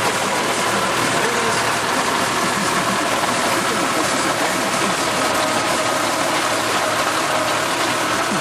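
Tractor engine running steadily while a tractor-driven rotary chopper spins, shredding celery plants. A steady high whine runs through the dense mechanical noise.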